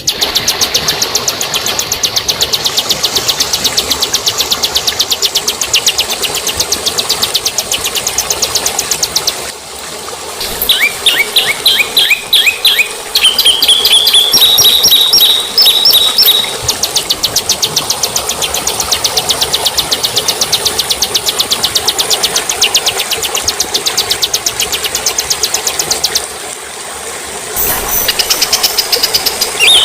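Recorded songbird calls from a bird-training (masteran) track. A fast, even rattling trill of many notes a second is broken about ten seconds in by a run of quick rising chirps and clear whistled notes. The trill then resumes, and chirps return near the end.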